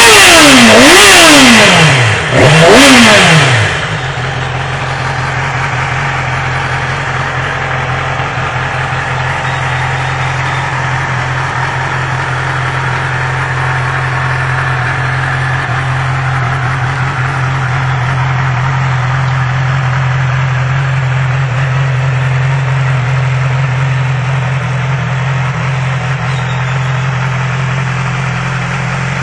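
2012 Yamaha R6's inline-four engine blipped twice in quick, loud revs, pitch climbing and dropping, then settling into a steady idle for the rest of the time.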